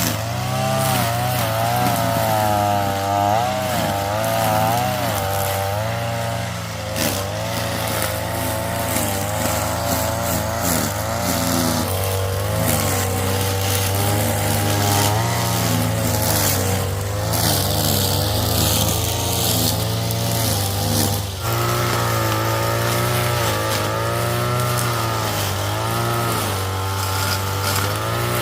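A small engine running, its pitch wavering up and down, with abrupt changes in tone at about seven and twenty-one seconds.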